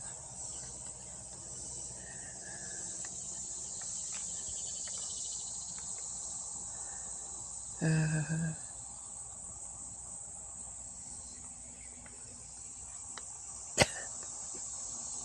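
Steady high-pitched insect chorus outdoors. About halfway through, a brief low voice-like sound is heard, and a single sharp click comes near the end.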